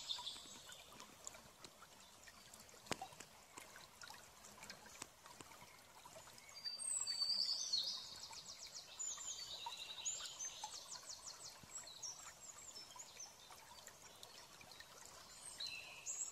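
A small bird chirping, with a fast trill of rapidly repeated high notes for several seconds about halfway through, over a faint steady hiss.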